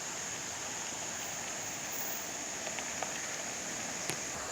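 Quiet outdoor ambience: a steady hiss with a thin, high, unbroken tone over it, and two faint clicks about three and four seconds in.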